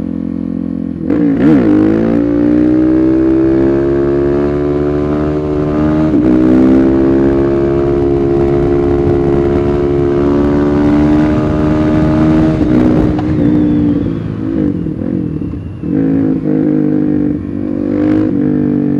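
Suzuki DR-Z400SM supermoto's single-cylinder engine ridden hard: after about a second at a steady note it revs up and pulls through the gears, with a shift about six seconds in. From about thirteen seconds it eases off with several quick rises and falls in revs, then holds steady again near the end.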